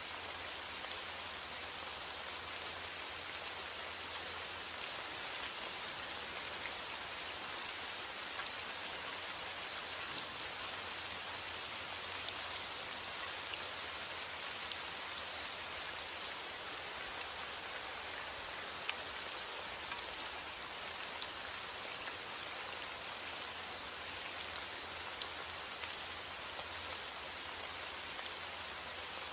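Steady rain falling, an even hiss with many small drop patters, brightest in the high range. Heavy rain without thunder.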